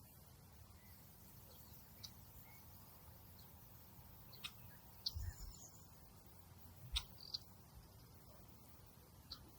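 Quiet outdoor nature ambience: a faint steady hiss with a handful of short, high chirps scattered through it and a couple of soft low thumps about five and seven seconds in.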